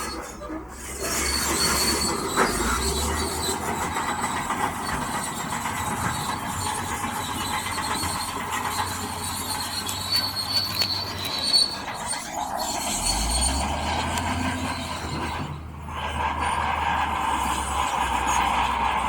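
Crawler bulldozer working, its diesel engine running steadily under a high metallic squeal from the steel tracks. The sound drops out briefly twice, once just after the start and once about three-quarters through.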